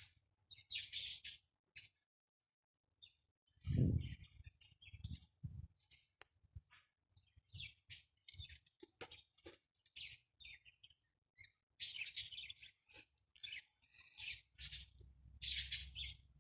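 Pet parrots chirping in short bursts, on and off, with a dull thump about four seconds in.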